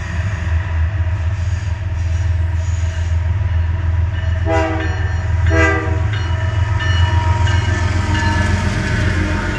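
CSX diesel locomotive leading a freight train, approaching and passing with a steady low engine rumble. It sounds its horn twice in short blasts about four and a half and five and a half seconds in, and the noise of the engine and wheels grows as it goes by near the end.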